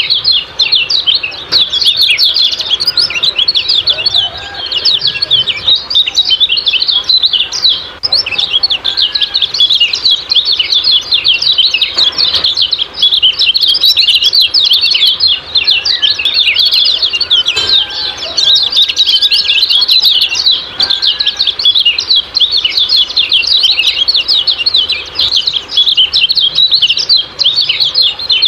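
Kecial kuning chirping a fast, unbroken 'ciak-ciak' chatter of high-pitched notes, with a few fainter, lower calls now and then underneath.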